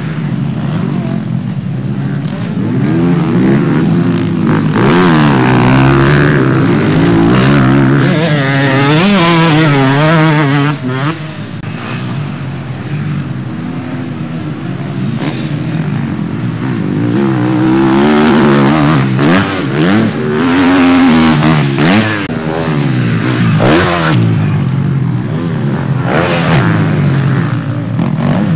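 Several motocross bikes racing, their engines revving up and down with gear changes. The sound swells loudest twice as the bikes pass close, a few seconds in and again about two-thirds of the way through.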